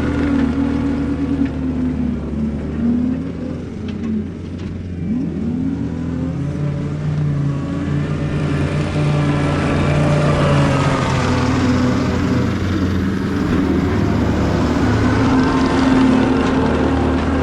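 John Deere 333E skid loader's diesel engine running under working load, its pitch dipping and recovering a few times in the first several seconds. About halfway through, a rising hiss and whine grows over the engine.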